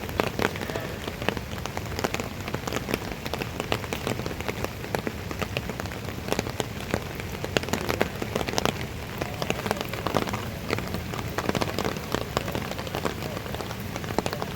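Rain falling steadily, with many separate drops pattering close by.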